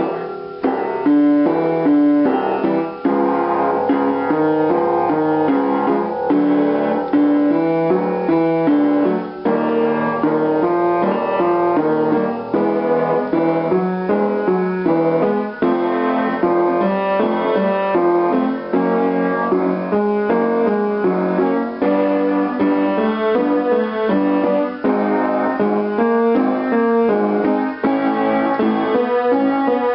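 Piano playing the accompaniment for a vocal warm-up exercise, with short note patterns repeated over and over.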